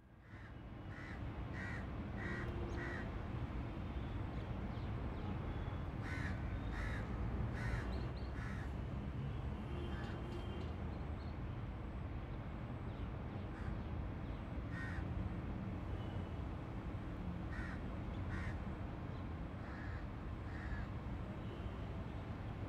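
Birds calling in short calls, several in quick succession, recurring every few seconds over a steady low rumble of ambient background.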